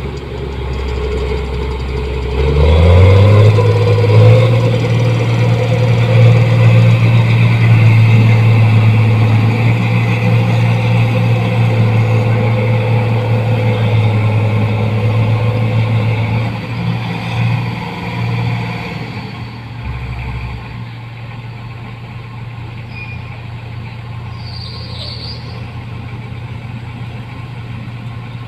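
Rice combine harvester's diesel engine revving up about three seconds in and running loud and steady, then easing back to a lower, quieter run near the end.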